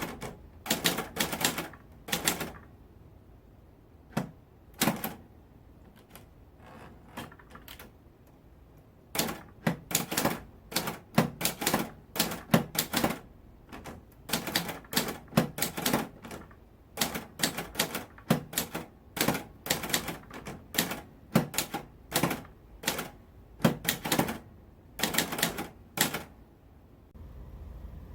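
Typewriter keys struck in quick runs of typing, each keystroke a sharp clack, with short pauses between phrases. A sparser, softer stretch of taps falls early on the middle, and the typing stops shortly before the end.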